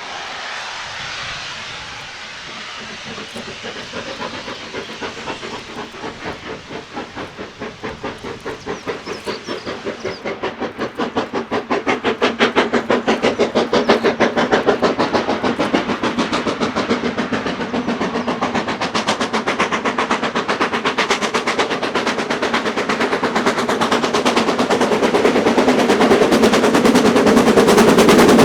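BR Standard Class 9F 2-10-0 steam locomotive 92214 working a goods train. It starts with a hiss of steam, then its exhaust beat comes in and grows faster and louder as it approaches. It passes close near the end.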